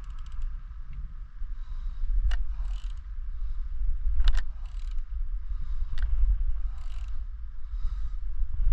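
Hand tools working on metal: sharp clicks about every two seconds with short scraping sounds between them, over a steady low rumble.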